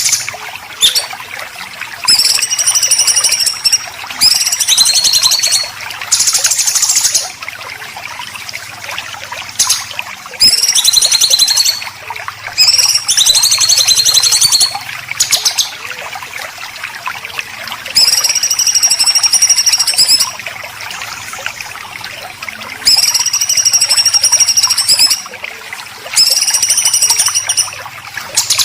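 Harsh, rasping songbird 'besetan' calls of the kind used to train white-rumped shamas and green leafbirds. The calls come as about ten loud scratchy phrases of one to two seconds each, many with a high whistled note arching through them, separated by short pauses over a steady background hiss.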